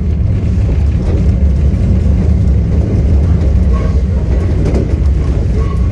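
Enoden electric train running with a steady low rumble, a few faint brief high tones sounding over it in the second half.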